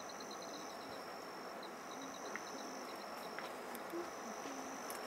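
Insects trilling: high-pitched, steady buzzing tones that start and stop every second or two, overlaid with short runs of quick chirps.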